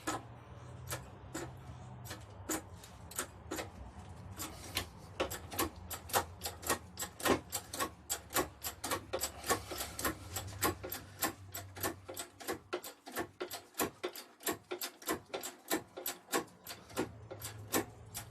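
Workshop press at work pressing a cup into a KAMAZ hydraulic cylinder: a long run of regular clicks, about three or four a second, over a low hum that drops out for a few seconds past the middle.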